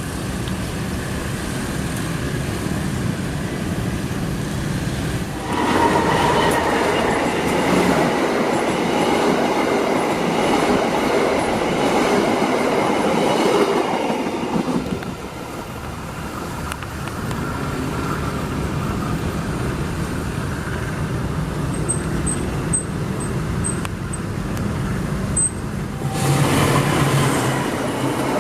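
A train running past close by: a steady rumble, then a louder rush of wheels clattering over the rail joints as the cars go by, easing briefly midway and surging again near the end.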